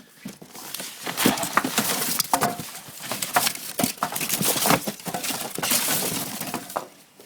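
Hands rummaging through the packing material of a shipping box, with busy, irregular crackling, rustling and knocking.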